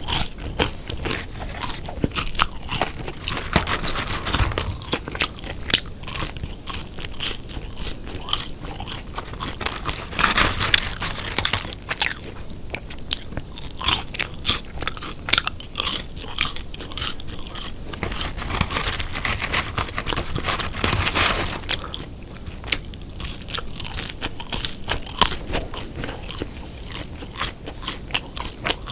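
Close-miked chewing of a fast-food beef burger: a continuous run of sharp crunches, wet chewing and biting, with a few denser crunchy spells.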